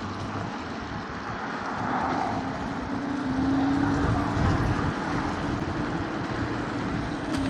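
Riding noise from an electric scooter moving through city traffic: a steady hum under a wash of road and wind noise.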